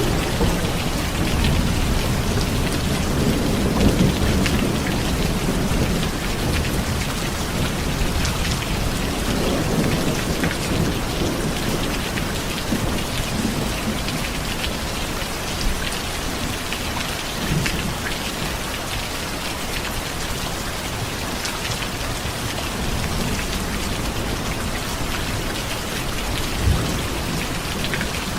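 Steady heavy rain falling, with a low rumble of distant thunder underneath that is strongest in the first several seconds and then eases. Scattered louder drops tick through the hiss.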